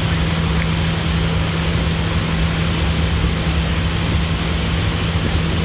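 Tour boat's motor running steadily with a constant low drone, over an even rushing noise of wind and water.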